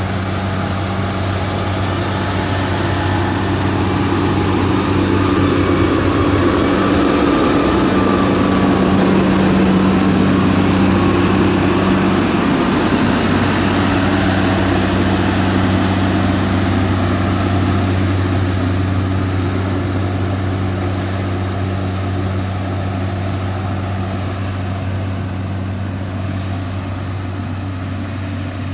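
Heavy diesel engine of road construction machinery running steadily with a deep hum. It grows louder towards the middle and eases off near the end, with a faint higher whine above it.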